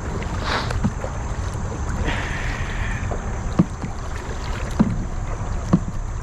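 Kayak being paddled against a strong river current: a steady rush of water. Sharp knocks come about once a second in the second half, in time with the paddle strokes.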